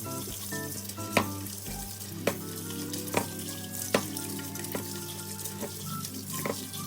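Food sizzling in a frying pan, with several sharp knocks of a utensil against the pan as it is stirred, over background music.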